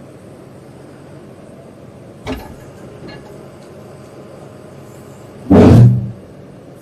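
Heavy demolition machine's engine running steadily, with a knock about two seconds in and a loud heavy crash near the end as the house's masonry is broken.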